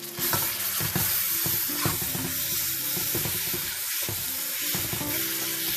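Tilapia fillets and onion-tomato masala sizzling in a hot wok while a spatula stirs and scrapes the pan: a steady frying hiss broken by many short scraping strokes.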